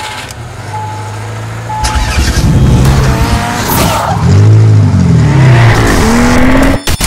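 Car sound effects: three short chime beeps about a second apart over an idling engine, then the engine revving up and down with tyre squeal, cutting off suddenly near the end.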